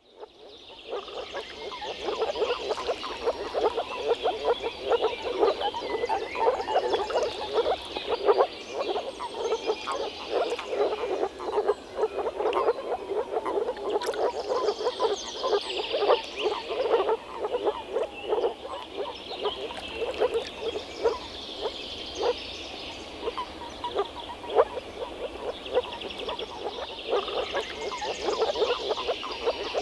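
A chorus of moor frogs calling, many rapid pulsed calls overlapping into a continuous sound, rising in from silence over the first couple of seconds.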